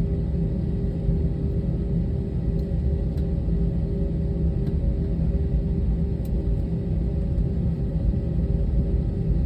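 Airliner's steady low rumble, with a steady hum running under it.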